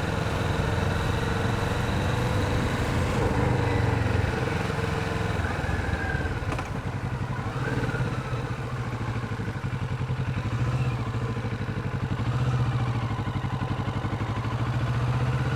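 Kawasaki Vulcan 650's parallel-twin engine running steadily at low city-street speed, with small rises and falls in pitch as the throttle changes.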